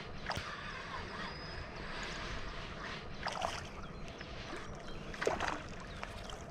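Water splashing and sloshing in short bursts, three times: about half a second in, around three seconds in and just after five seconds, over a steady outdoor hiss.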